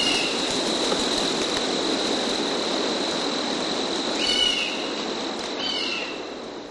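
Outdoor ambience of short, descending bird chirps over a steady hiss and a steady high tone, three chirps in all, fading out near the end.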